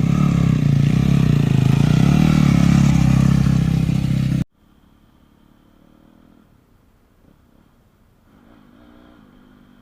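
Yamaha YZ250F motocross bike's 250 cc single-cylinder four-stroke engine revving loudly close by, its pitch rising and falling, then cutting off abruptly about four and a half seconds in. After that an engine runs faintly in the distance, swelling slightly near the end.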